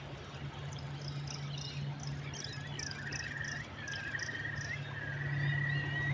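Outdoor animal calls over a steady wash of noise. Buzzy trills, each about a second long, repeat from about halfway through, and a quick run of short, high chirps comes first and stops near the end.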